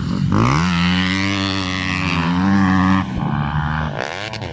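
Motocross bike engine revving: its pitch rises sharply as it accelerates, holds high for a couple of seconds, then drops off about three seconds in, with another brief rev near the end.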